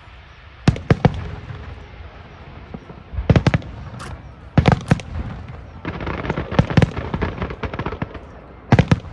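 Aerial fireworks shells bursting overhead: irregular clusters of sharp bangs, densest in a rapid run about two-thirds of the way through.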